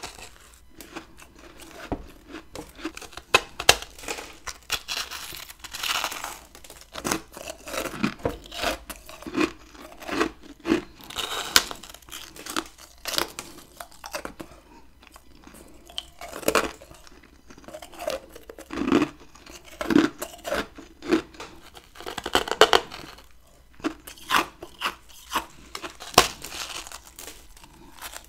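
Close-miked biting and chewing of chunks of freezer frost ice: irregular sharp crunches and crackles, with louder clusters of bites every second or two.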